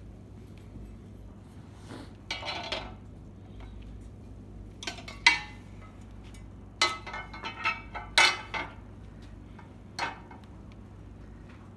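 Small metal parts and tools clinking and rattling against each other in several short bursts of handling, the loudest two near the middle, as hardware is worked on during a standing-desk motor replacement.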